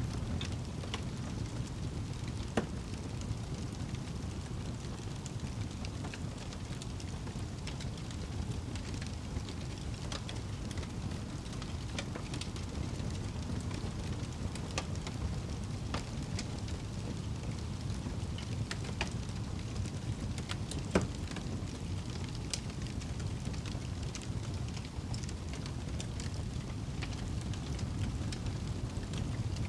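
Wood fire crackling in a fireplace: scattered sharp pops and snaps over a steady low rumble of burning, with one louder pop about two-thirds of the way in.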